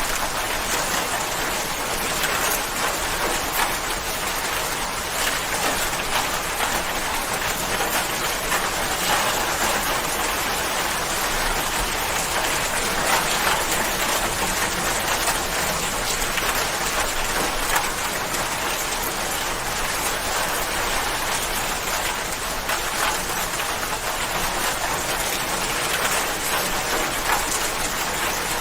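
Steady rain falling, an even dense hiss of many fine drops pattering on a surface.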